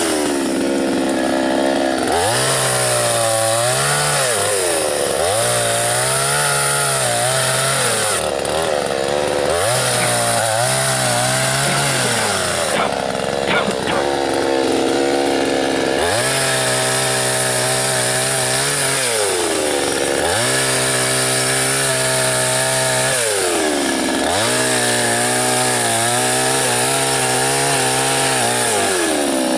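Soyuz PTS-99520T two-stroke chainsaw cutting dry birch into firewood rounds. The engine runs at full throttle through each cut and drops back and revs up again between cuts, six or seven times.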